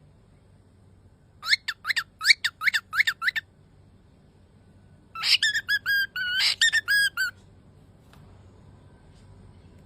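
Cockatiel giving a quick run of about eight short chirps, then, after a pause of a couple of seconds, a whistled phrase of several held notes.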